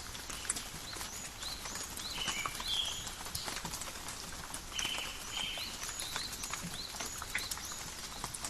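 Steady rain pattering in a forest, with many individual drop clicks. A bird calls repeatedly over it in short rising chirps, with two buzzy notes about 2 and 5 seconds in.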